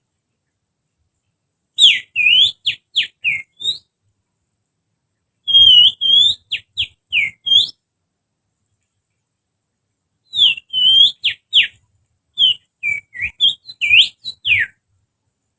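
Finger whistle imitating the song of an oriental magpie-robin (kacer): four phrases of quick, sharp whistled notes that sweep up and down, with short pauses between the phrases.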